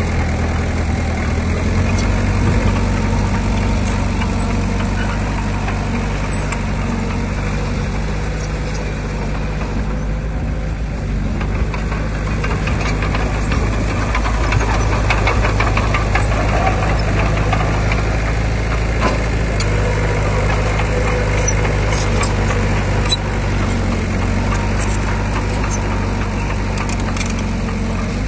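Heavy diesel engine of earthmoving machinery running steadily with a knocking diesel note, easing off about ten seconds in and building up again a few seconds later.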